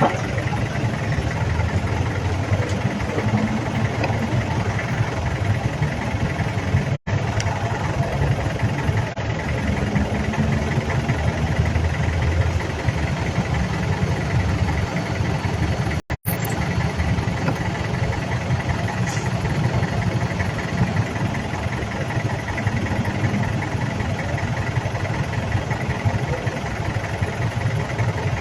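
Motorcycle engine running steadily. The sound cuts out for a split second about seven seconds in and again about sixteen seconds in.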